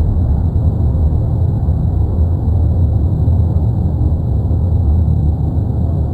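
Erupting volcano's continuous deep rumble, a steady low noise with no breaks.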